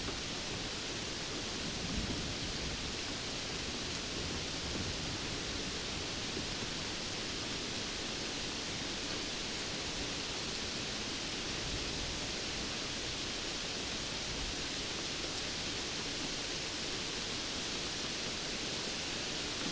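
Steady rainfall, an even hiss with a low rumble underneath and no separate drops or gaps.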